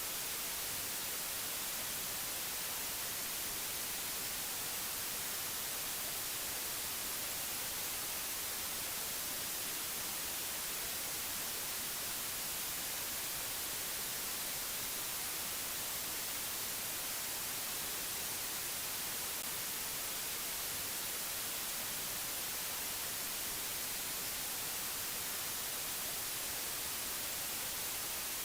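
Steady hiss of white noise, even and unchanging, strongest in the high end.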